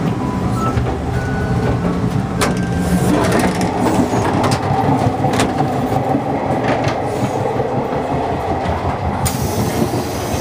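Running noise of the Hokutosei sleeper train heard from inside its carriages: a steady low rumble and rattle with several sharp clicks along the way, and a brief hiss near the end.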